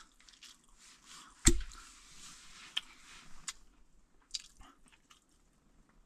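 A person eating: soft chewing and wet mouth sounds with small clicks, and a sharp knock about a second and a half in.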